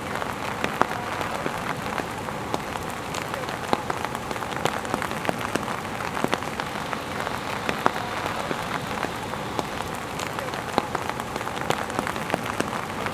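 Steady rain falling on a wet street, with many separate drop hits ticking sharply over the even hiss.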